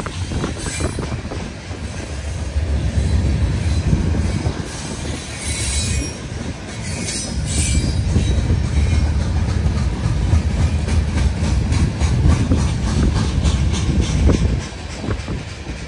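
Freight cars of a Canadian National manifest train rolling past at speed: a heavy steady rumble of steel wheels on rail with a run of clicks over the rail joints. Brief high-pitched wheel squeals come in about the middle, and the rumble eases a little near the end.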